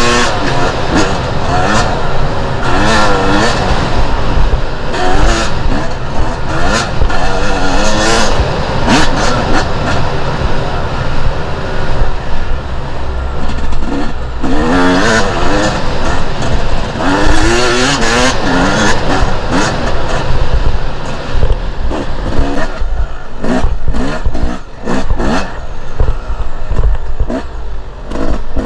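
Two-stroke enduro dirt bike engine revving hard off-road, its pitch climbing and dropping again and again as the throttle is worked and gears change.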